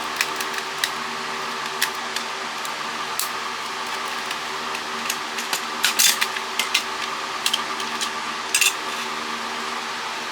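Plastic clicks, snaps and light knocks from a cordless phone being taken apart by hand, a cluster of them about six seconds in and again near the end, over a steady background hum.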